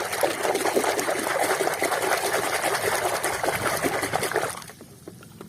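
Water running and splashing as a muddy toy vehicle is rinsed clean, stopping abruptly near the end.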